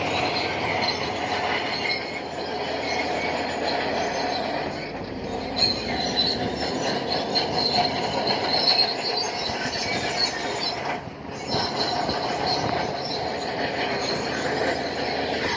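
Shantui crawler bulldozer at work: its steel tracks squeal and clatter over the steady running of its diesel engine, easing off briefly about eleven seconds in.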